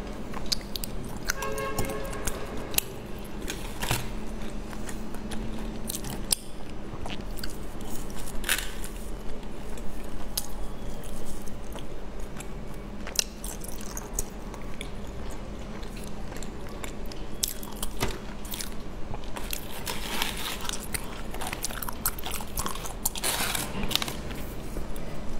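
Close-miked eating sounds: biting into and chewing a soft green sweet, with wet mouth clicks. Near the end, clear plastic trays being stacked and handled crinkle and click.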